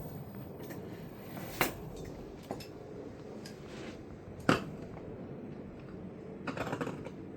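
Small hard objects being handled: two sharp knocks about three seconds apart, a faint tap between them, and a quick rattle of clicks near the end, over low steady background noise.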